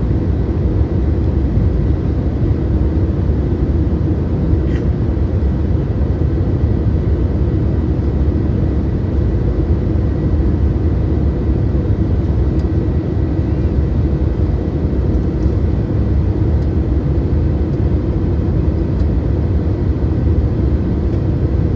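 Steady low drone inside the cabin of an Airbus A320neo with CFM LEAP-1A engines, engine and air noise holding an even level with no spool-up or change.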